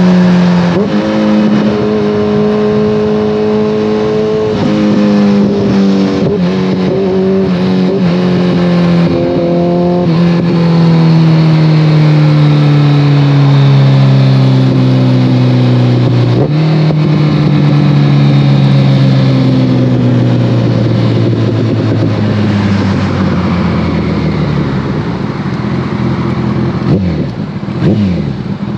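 Kawasaki ZX-14R inline-four running through a full Brocks Alien Head 2 exhaust as the bike is ridden. The pitch falls slowly over long stretches as it slows, with a few sudden steps at gear changes, then settles to a steady low note, with a short rev near the end.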